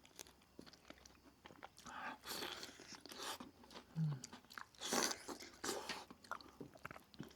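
Close-miked eating: crisp food bitten and chewed with wet crunching, in irregular bursts, the loudest a little after the middle.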